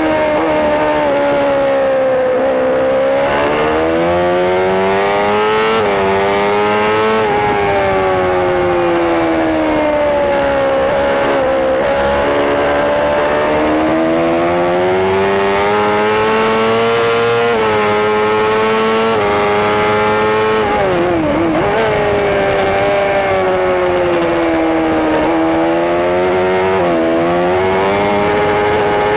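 Racing superbike engine heard on board at full race pace, its pitch climbing through the gears with sudden drops at each upshift, then falling away under braking with quick blips on the downshifts about two-thirds of the way through, before it pulls hard again.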